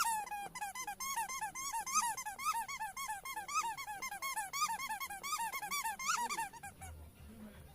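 Squeaky toy ball being squeezed over and over as a pet chews on it, giving rapid squeaks of about four a second that stop near the end.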